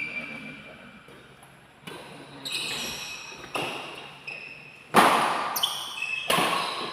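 A badminton rally in an indoor hall: rackets striking the shuttlecock about six times, roughly a second apart, the hardest hit about five seconds in, with shoes squeaking on the court between shots.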